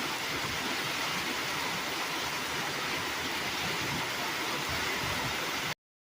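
Heavy rain pouring steadily, with low rumbles of wind underneath. It cuts off abruptly near the end.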